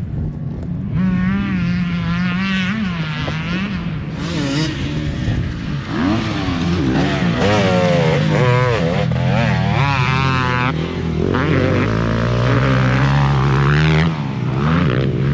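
Several motocross dirt bikes racing, their engines revving up and dropping back over and over as the riders work the throttle and shift through the gears, overlapping one another. The engines are loudest through the second half.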